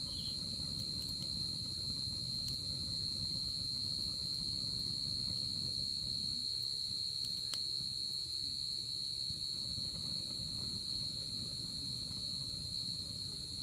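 Night crickets trilling continuously at a steady high pitch, with a second, higher insect band above them, over a low steady rumble from a campfire. A faint pop is heard about seven and a half seconds in.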